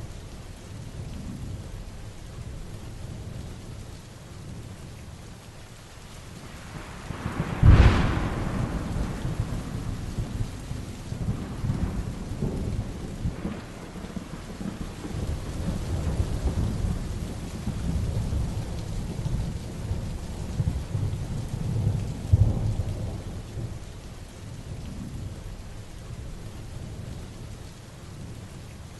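Heavy rain falling steadily with thunder rumbling low throughout. A sharp, close thunderclap breaks about eight seconds in and rolls on, and another loud rumble swells around twenty-two seconds.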